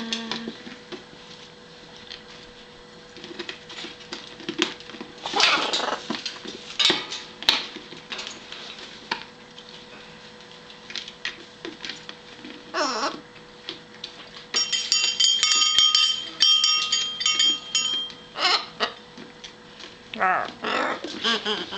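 Blue-and-gold macaw making scattered short calls and mumbling sounds between its words. In the middle of the stretch comes a run of quick, steady-pitched beeps lasting a few seconds.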